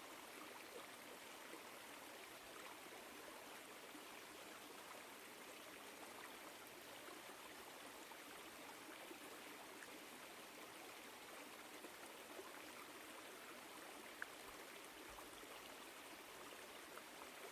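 Small woodland stream flowing over rocks: a faint, steady rush of water. One small click sounds about fourteen seconds in.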